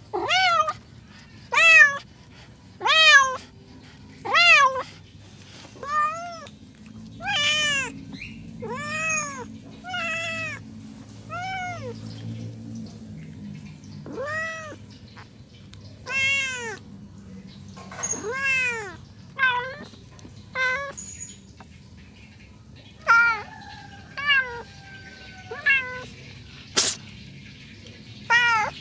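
A domestic cat meowing over and over, one meow every second or so, begging for food. There is a single sharp click near the end.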